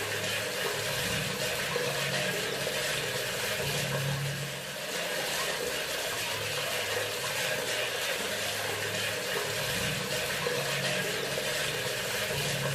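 Bathroom sink faucet running: a steady stream of water pouring into the basin.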